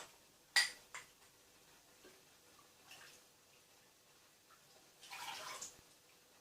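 Freshly steamed hot fruit juice being handled in a glass: a sharp clink of glass a little after the start and a lighter one just after it, faint ticks and drips, then a short liquid splash about five seconds in.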